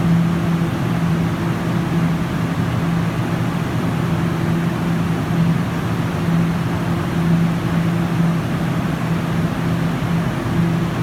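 Guangzhou Metro Line 1 train running, a steady rumble with a constant low hum and a fainter overtone above it.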